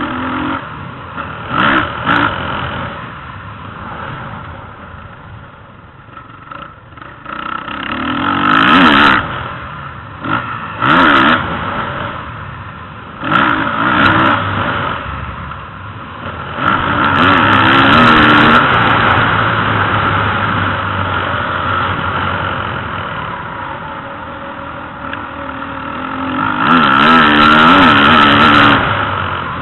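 Motocross motorcycle engines revving up and easing off again and again. There are longer loud stretches of held throttle about halfway through and near the end.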